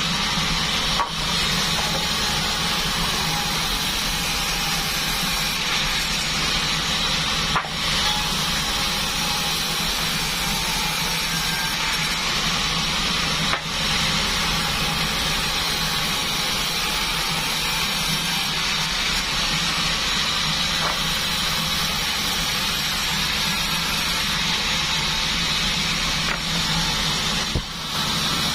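Band sawmill (a 36 bandsaw) running steadily while it saws durian wood, with a few brief dips in the noise.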